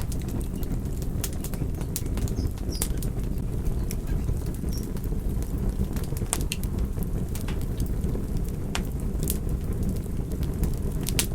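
Wood fire crackling: irregular sharp pops and snaps scattered over a steady low rush of the flames.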